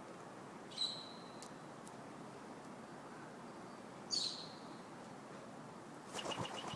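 A bird gives two short, sharp high chirps, each sliding down in pitch, about three seconds apart. A brief flurry of rustling with rapid faint pips comes near the end.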